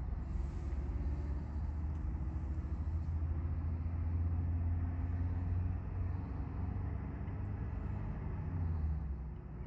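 Low, steady engine rumble, swelling through the middle and easing off near the end.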